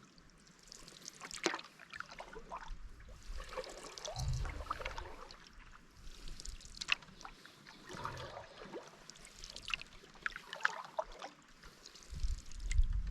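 Water splashing and trickling around a canoe as it is paddled or handled in the shallows, with scattered light knocks. There are dull thumps about four seconds in and again near the end.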